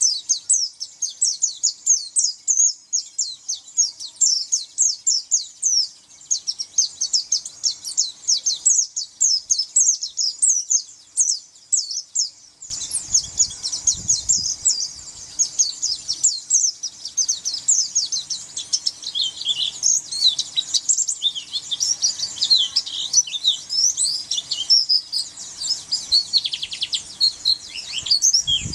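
Pleci (white-eye) singing a long, rapid run of high, thin chirps and twitters without pause. About halfway through, a low rumbling background and a faint steady hum come in under the song.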